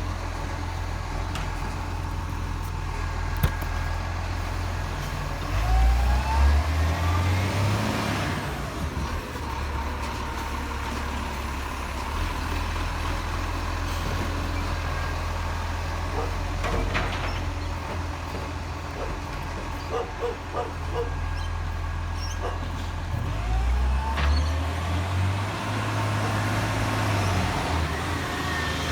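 Garbage truck engine running steadily, revving up twice: about six seconds in and again near the end, with pitch glides as it picks up speed.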